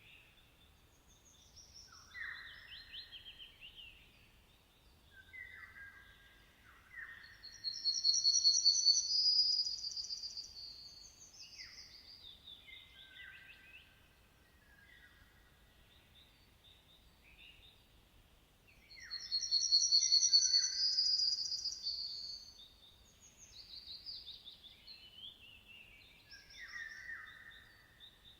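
Songbirds singing in separate phrases of chirps and short whistled notes, over a quiet background. Twice, about eight and nineteen seconds in, a loud, high, fast trill lasts about three seconds and stands out above the rest.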